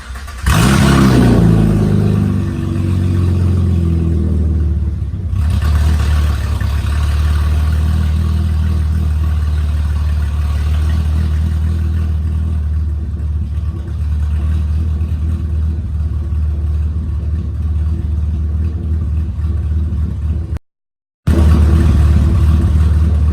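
Chevrolet Camaro V6 engine starting up about half a second in, flaring briefly and settling within a couple of seconds into a steady idle. This is a warm start, not a cold one. The sound cuts out completely for about half a second near the end.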